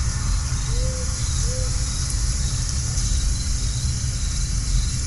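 Steady low rumble with a constant hum beneath it, and two short faint tones about a second in.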